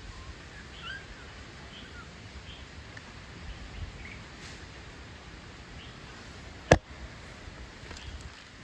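A single sharp click or knock about two-thirds of the way in, over a low background with a few faint, short high chirps.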